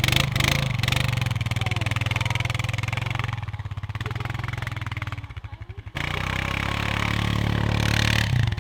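Engine of a snow-plowing vehicle running with an even, pulsing note while it is worked free from being stuck on an icy hill. It eases off about five seconds in, then comes back stronger and builds before dropping near the end.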